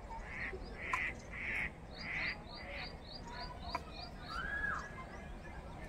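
Birds calling: a run of short, harsh calls about half a second apart, with a quick series of high chirps over them, then a single gliding call near the end.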